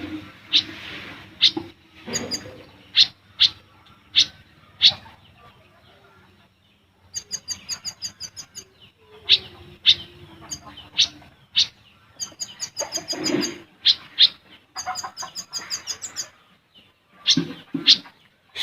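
A sunbird (kept in Indonesia as a 'Kolibri Ninja') singing hard: sharp, high single call notes about every half second, broken by rapid high twittering runs about seven seconds in and again from about twelve to sixteen seconds.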